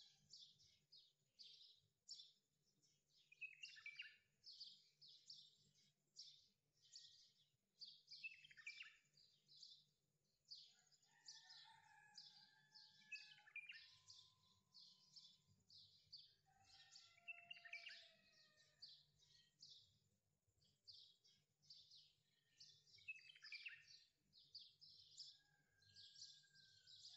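Faint birdsong: dense runs of quick high chirps mixed with falling whistles and a few short held whistled notes, several birds overlapping, over a faint steady low hum.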